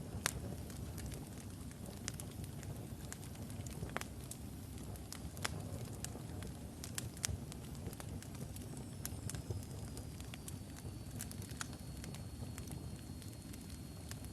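Wood logs burning in a fireplace: a low steady rumble of flame with irregular sharp crackles and pops, a few of them louder snaps. After about nine seconds a faint thin high whistle comes in, sliding slightly down in pitch.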